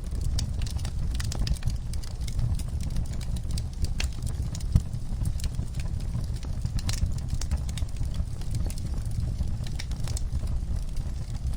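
Wood fire in a fireplace crackling: irregular sharp pops and snaps over a steady low rumble of the flames, with one louder pop about five seconds in.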